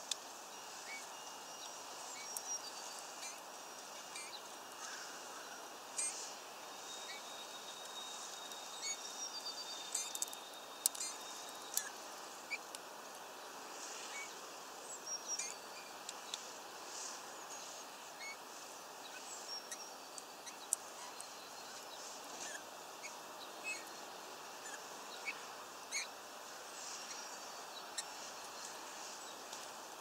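Scattered short, high bird chirps and sharp clicks over a steady outdoor hiss, with a thin held tone for a few seconds near the middle.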